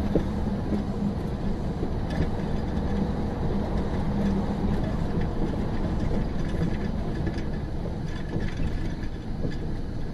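Steady running noise of a moving vehicle, with a low hum and scattered faint clicks.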